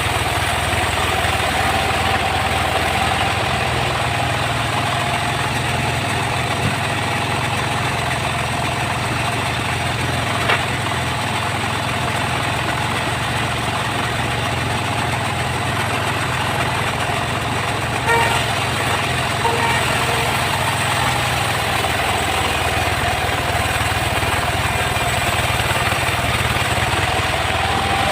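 Sawmill saw rig running steadily with a low engine drone and a whine that sags slightly in pitch through the middle and rises again near the end. A few short knocks come about ten seconds in and again around eighteen seconds.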